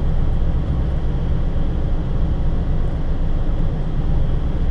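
Vehicle engine idling with the heater fan blowing to defrost the iced windshield: a steady low rumble under an even rush of air, heard from inside the cabin.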